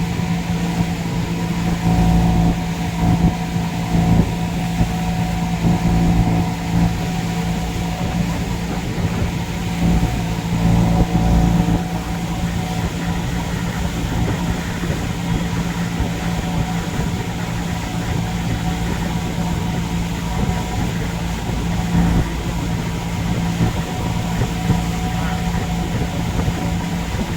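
A boat's engine running steadily under way: a constant drone with a strong low hum.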